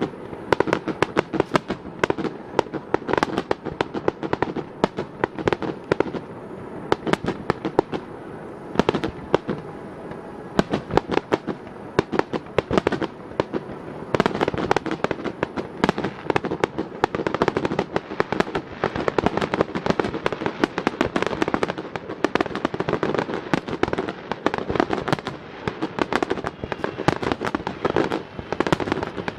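Starmine fireworks: aerial shells launching and bursting in rapid-fire succession, several sharp bangs a second with no break.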